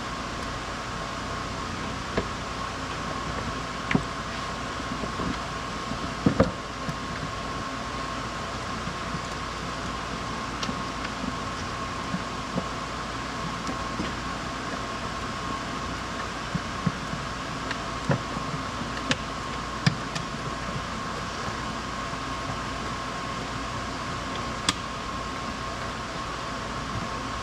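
Steady mechanical hum, with scattered light clicks and knocks, a pair of them louder about six seconds in.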